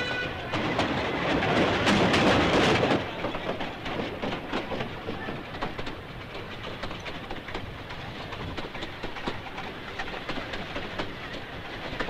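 Narrow-gauge train running along the track: a loud rushing rattle for about three seconds, then quieter, with wheels clicking and knocking irregularly over the rails.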